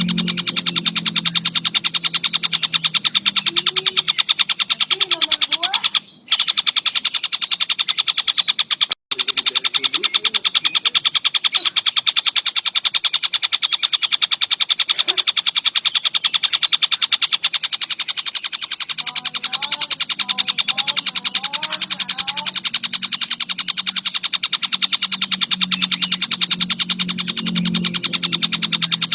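Tengkek buto kingfisher chattering without a break: a dense, fast string of sharp, high notes. The sound cuts out briefly twice, about six and nine seconds in.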